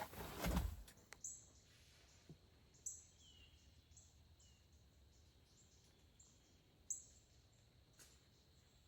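A brief rustling bump at the start, then small birds chirping faintly in short high-pitched notes, repeated every half second or so, with a couple of lower, falling chirps about three seconds in.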